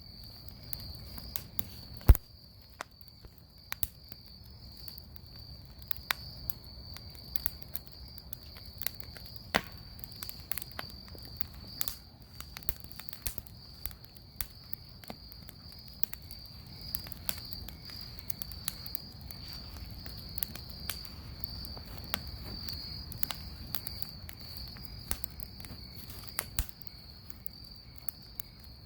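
Bonfire crackling with frequent sharp pops at irregular intervals, the loudest about two seconds in, over a steady high-pitched insect chorus.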